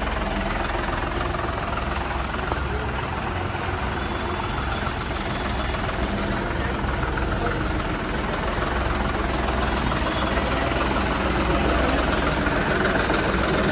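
Tractor diesel engine running steadily, growing a little louder over the last few seconds.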